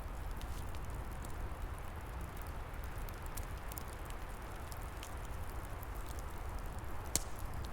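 Open wood fire crackling with scattered small pops and one sharper pop near the end, over a steady rushing of wind in the trees with a low rumble.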